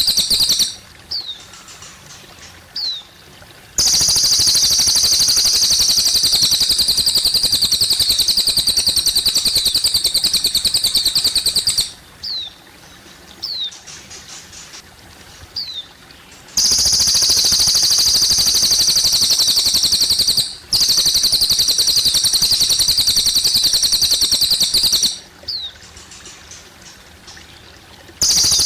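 Cililin bird singing in long, high, rapidly pulsed trills that run for several seconds at a time, broken by short pauses that hold single quick downward chirps. Faint trickling water runs underneath.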